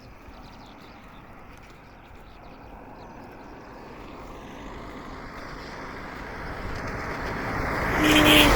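A vehicle approaching, its noise building steadily over several seconds and peaking near the end as it passes close by.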